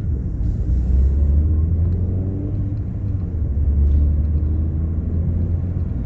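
Ford Fiesta Mk7 on the move, heard inside the cabin: a steady low rumble of engine and road noise, with the engine note shifting in pitch partway through.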